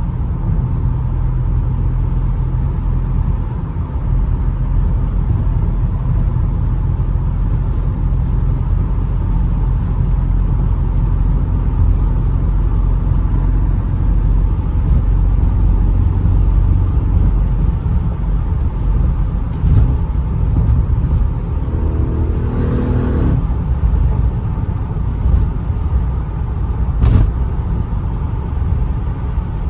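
Audi RS7 Performance's twin-turbo V8 and tyres making a steady low drone at cruising speed on stock exhaust, heard from inside the cabin.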